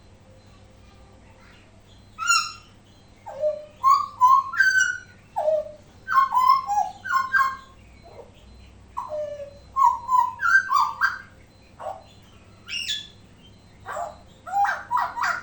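Hooded butcherbird singing: a rapid series of loud, short whistled notes that slide up and down, in clusters, starting about two seconds in. A faint steady hum underneath.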